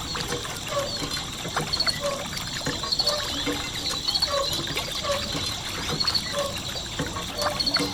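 Water trickling and pouring from a small DIY motor-driven model water pump.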